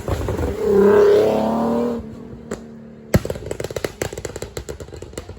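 Car engine revved hard for about a second and a half, then dropping back. A little past three seconds comes a sharp crack, followed by a rapid, uneven crackle.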